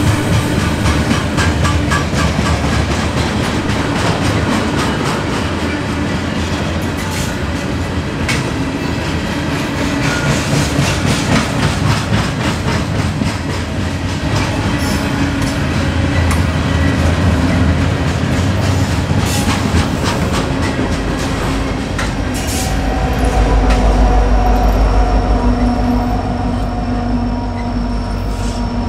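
Freight train of steel-coil flatcars rolling past, the wheels clattering steadily over the rail joints. About 22 seconds in, the deep rumble of a diesel locomotive's engine comes in and swells as a trailing locomotive pulls alongside.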